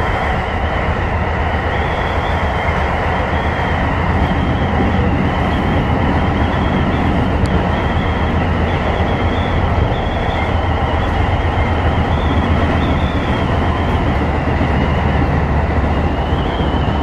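Tobu 10030-series electric commuter train running at speed between stations, heard from inside the front car. A steady rumble of wheels on the rails, with a thin, high whine wavering above it.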